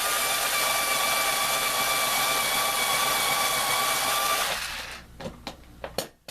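Electric screwdriver running steadily with a whirring tone on a stripped screw, then winding down about four and a half seconds in. A few light clicks and knocks follow.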